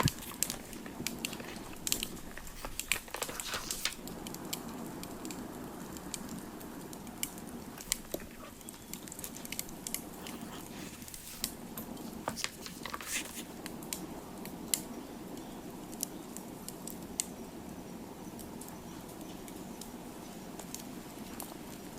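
Crackling campfire: irregular sharp snaps and pops over a low steady rustle, with a cluster of louder snaps at the start and again around two to three seconds in and near the middle.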